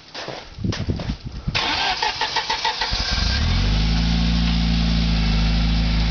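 A Jeep rock crawler's engine is cranked over by the starter about a second and a half in. It catches about three seconds in and settles into a steady idle.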